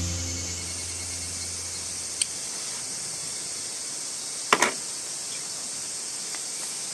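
Steady high-pitched insect drone in the background, with a small click about two seconds in and a sharp crackle a little past halfway. The last of a piano note dies away at the start.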